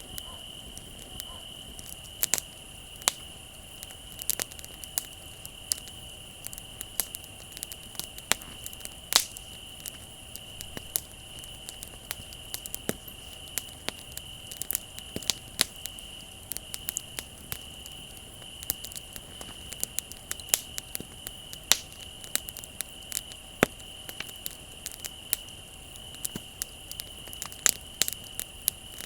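Wood fire on the ground crackling, with frequent irregular sharp pops, over a steady high trill of crickets.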